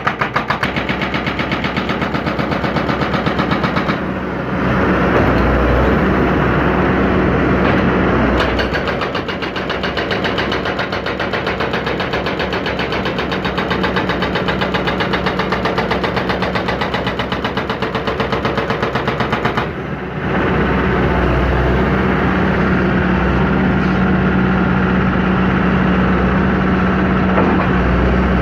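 John Deere 160C excavator's diesel engine running steadily while working. Its sound dips briefly twice, about four seconds in and again near twenty seconds, then comes back up to full.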